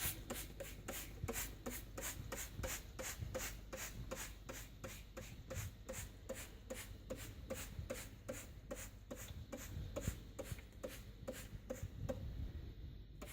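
A trigger spray bottle of cleaner squeezed over and over, about three short hissing sprays a second, stopping near the end.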